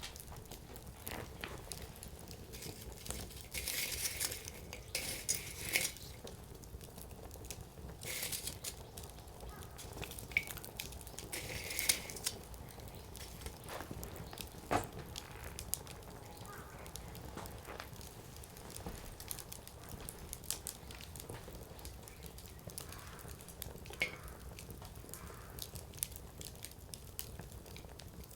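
Wood fire burning, the firewood crackling and popping. Flurries of crackle come about four, eight and twelve seconds in, with single sharp pops near fifteen and twenty-four seconds.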